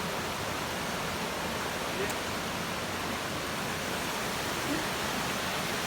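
Waterfall, water rushing in a steady, even hiss.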